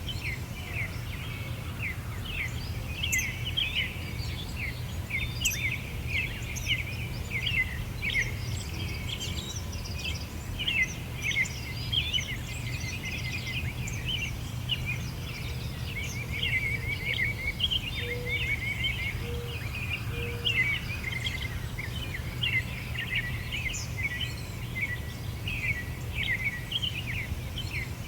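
Several small birds chirping and trilling continuously over a steady low rumble of background noise.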